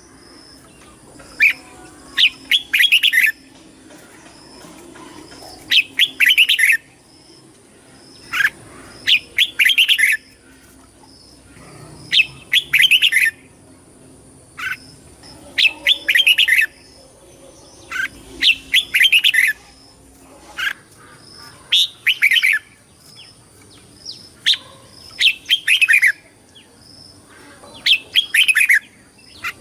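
Red-whiskered bulbul singing short, clear whistled phrases, one every two to three seconds.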